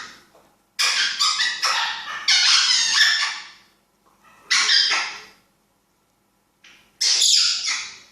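African grey parrot giving harsh, noisy calls in three bursts, the first about two and a half seconds long and the others shorter.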